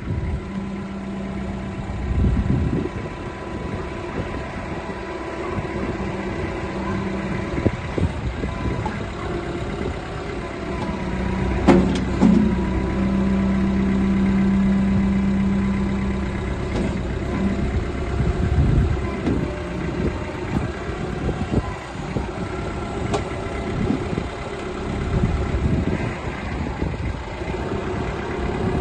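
Kubota L4240 tractor's diesel engine running steadily. A few sharp knocks sound midway, and a stronger steady low note is held for a few seconds.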